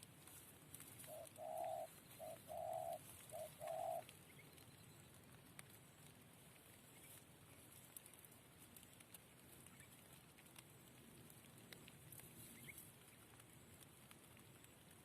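Spotted dove (tekukur) cooing: one phrase of three two-part coos, each a short note then a longer one, about a second in, then faint background.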